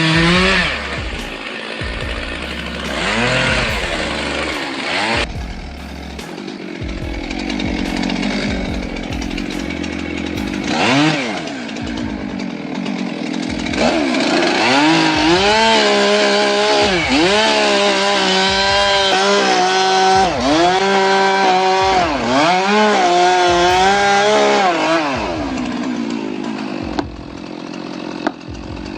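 Gas chainsaw cutting into a tree, its engine pitch repeatedly dropping as the chain bogs into the wood and rising again as it is revved back up. The steady run of cuts fades out near the end.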